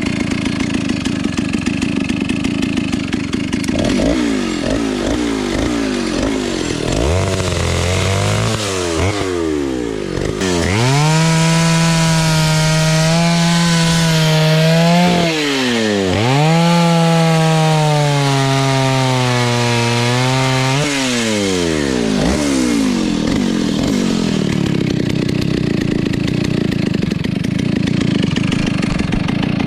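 Vintage Stihl S-10 56cc two-stroke chainsaw idling, then revved in a few short blips. It is then held at high revs twice for about five seconds each, the pitch sagging slightly as the chain cuts into wood. Near the end it drops back to idle.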